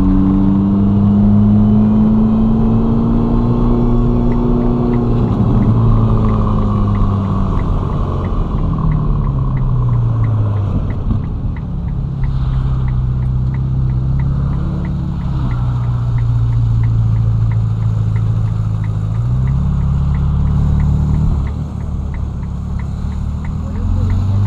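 Ferrari Roma's twin-turbo V8 running at low revs in light driving. It eases down about ten seconds in, holds steady, lifts briefly, then revs rise near the end as it accelerates. A steady light ticking, about two to three a second, runs from a few seconds in.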